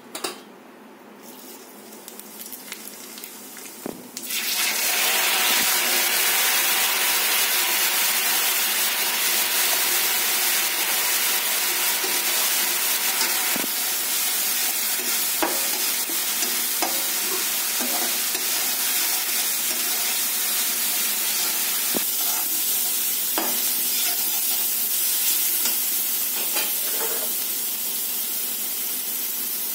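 Masala paste hitting hot oil in a steel kadai about four seconds in, setting off a loud sizzle that goes on steadily as the paste fries. A slotted steel spoon stirs and scrapes the pan, making scattered clicks.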